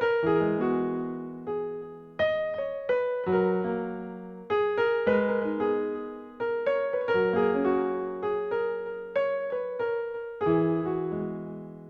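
Background music: gentle solo piano, notes and chords struck one after another, each ringing and fading.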